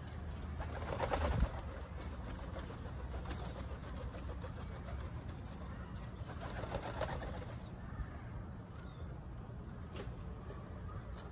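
Pigeons at a loft, wings flapping in two short bursts, about a second in and again around seven seconds in, over a steady low rumble.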